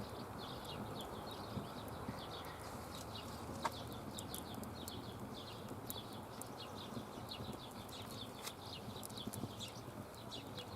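Small birds chirping and twittering: many short, high, falling notes in quick runs, with a few sharp clicks among them.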